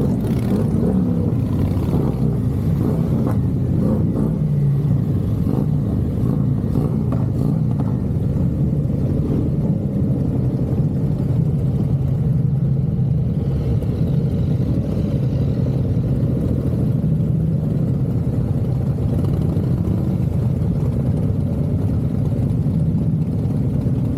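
Motorcycle engine running steadily on the move, with a constant low rumble of road and wind noise.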